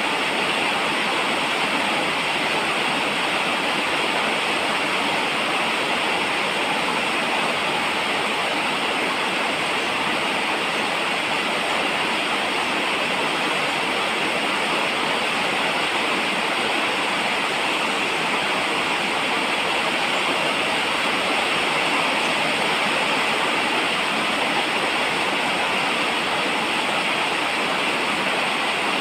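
Steady falling rain, an even unbroken hiss with no separate drops or thunder standing out.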